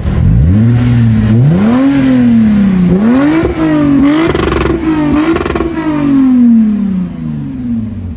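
1.4-litre turbocharged four-cylinder engine of a Mark 6 Volkswagen Golf being revved from idle in a series of throttle blips, its pitch climbing and dropping again and again. It then sinks back down towards idle over the last couple of seconds.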